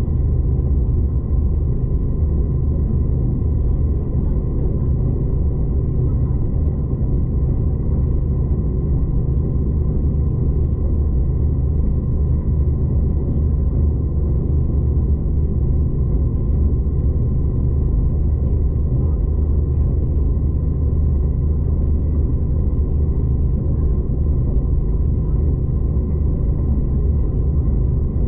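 Steady low rumble of a V/Line passenger train heard from inside the carriage while it runs along the track, with a faint steady whine above it.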